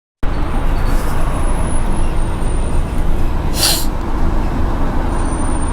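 Road traffic with a bus: a steady low rumble, with a short air-brake hiss about three and a half seconds in.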